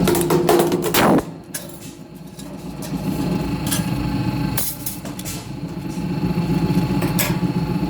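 Hydraulic press machine running with a steady motor hum, with several sharp metal clanks. The hum dips about a second in and builds back up.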